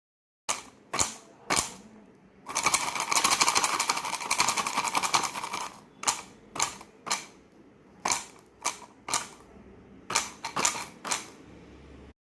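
Coconut shell halves knocked together: three sharp hollow clacks, then about three seconds of fast, dense clattering, then single clacks in twos and threes.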